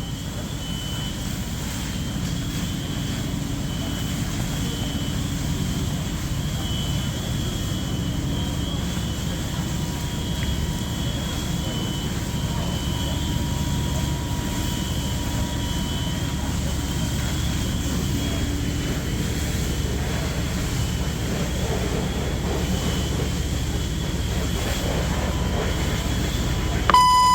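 Steady low engine rumble, typical of fire apparatus running at a fire scene, with a faint wavering high tone over it. Near the end a loud, steady beep starts suddenly: a radio dispatch alert tone.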